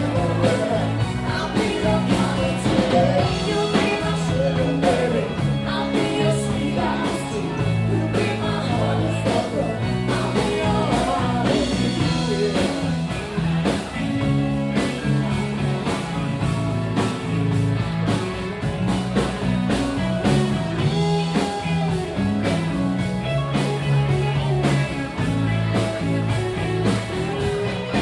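Live rock band playing, with drums, a stepping bass line and guitar throughout.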